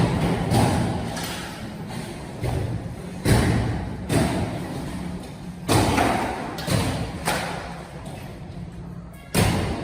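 Demolition work inside a building: heavy thuds and bangs, irregularly spaced at roughly one a second, each dying away quickly, with a loud one near the end.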